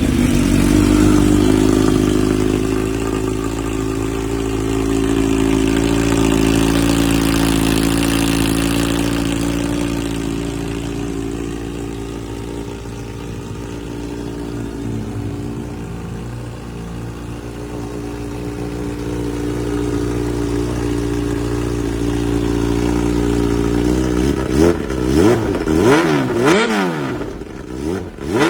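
Kawasaki Z H2's supercharged inline-four idling steadily through an Akrapovic exhaust, then revved in a series of quick throttle blips near the end.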